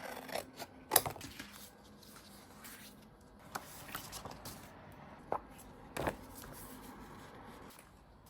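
Paper and craft materials being handled at a desk: light rustling with scattered sharp clicks and taps, the loudest about a second in.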